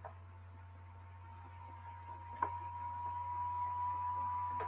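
Low steady electrical hum with a few faint clicks. A steady high-pitched tone comes in about two seconds in and holds.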